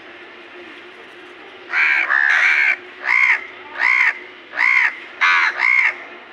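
Crow cawing repeatedly: a run of about seven caws starting about two seconds in, the first two running together.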